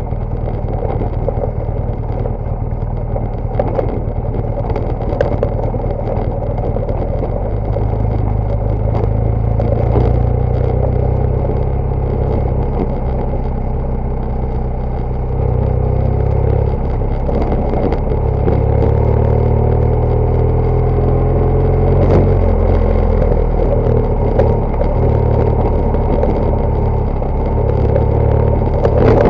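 BMW GS Adventure motorcycle engine running under way off road, steady low drone with the revs rising and falling from about the middle on, and scattered sharp clicks and knocks.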